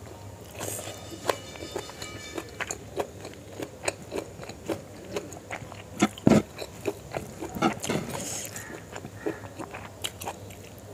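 Close-miked chewing of a rice and chicken liver and gizzard curry meal eaten by hand: wet lip smacks and sharp mouth clicks. The loudest smacks come a little after six seconds in and just before eight.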